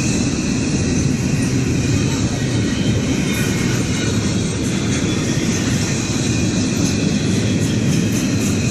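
Norfolk Southern double-stack freight train passing close by: a loud, steady rumble of the cars' wheels rolling on the rails.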